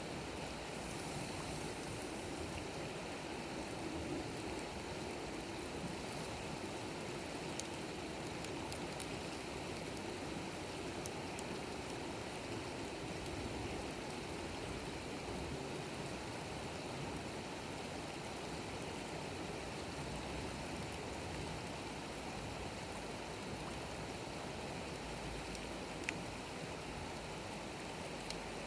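Wood campfire burning steadily: an even hiss with a few sharp crackling pops scattered through it.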